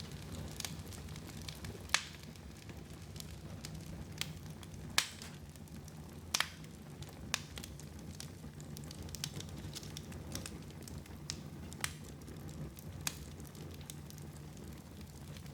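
Wood fire crackling in a fireplace: irregular sharp pops and snaps, the loudest about two and five seconds in, over a steady low hum.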